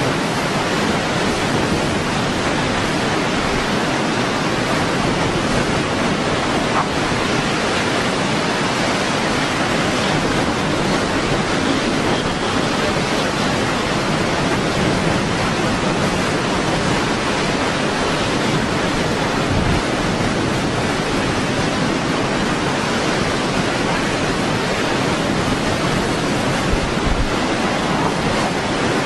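Strong wind blowing, a loud steady rushing noise that hardly rises or falls.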